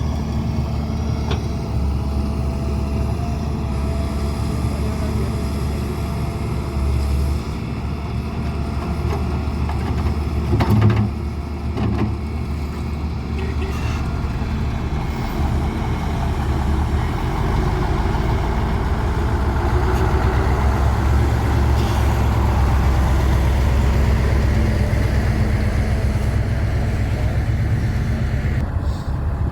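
Heavy diesel engine of an excavator working with a tractor, a steady low running sound. It grows louder and busier under load about halfway through, and there is a clunk around eleven seconds in.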